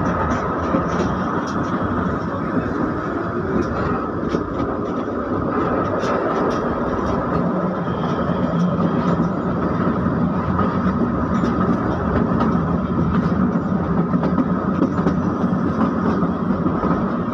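Kalka–Shimla narrow-gauge train running: a steady rumble and rattle of the moving carriage, with scattered sharp wheel clicks. The low rumble grows a little heavier about halfway through.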